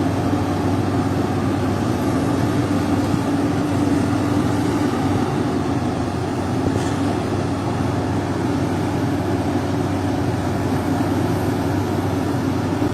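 Heavy machinery's diesel engine running steadily, with a constant low drone.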